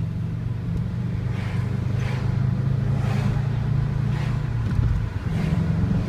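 Subaru's engine and exhaust droning steadily on the move, heard from a car following close behind; the drone grows a little louder, then drops away briefly about five seconds in.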